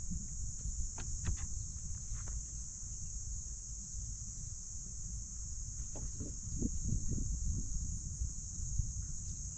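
Insects chirring in a steady high-pitched drone over a low rumble, with a few soft knocks about a second in and a short run of soft knocks past the middle.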